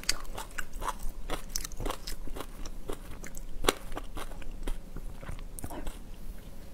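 A person chewing raw marinated prawn close to a clip-on microphone: irregular crunching clicks, several a second, with one sharper crunch a little past halfway.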